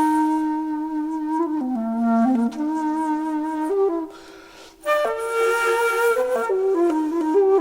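Background music: a slow solo flute melody of long held notes that step down and back up, with a short breath pause partway through before the next phrase.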